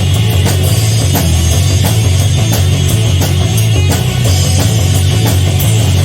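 Live rock band playing an instrumental passage: distorted electric guitars, bass and a drum kit keeping a steady beat, loud and somewhat harsh as picked up by a phone's microphone.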